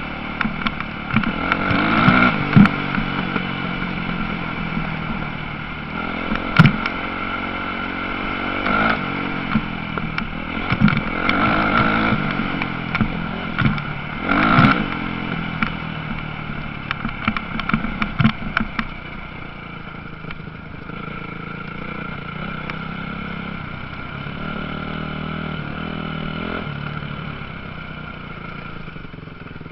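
Motocross dirt bikes running on a track, their engines revving up and down as they pass, with sharp cracks among the revs. After about two-thirds of the way through the engines drop to a quieter, steadier drone further off.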